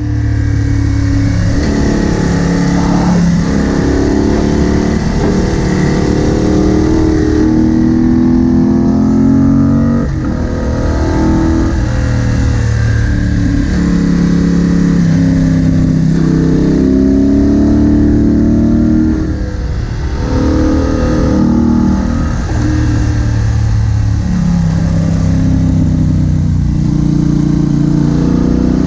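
Moto Guzzi Bellagio's air-cooled transverse V-twin engine heard from on board the motorcycle, its note rising and falling repeatedly as it accelerates and eases off, with short drops in level about ten and twenty seconds in.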